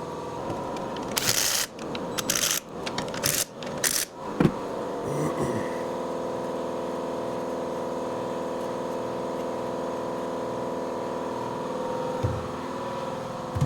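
Metal parts scraping and clanking as they are handled, ending in one sharp knock about four and a half seconds in, over a steady motor hum.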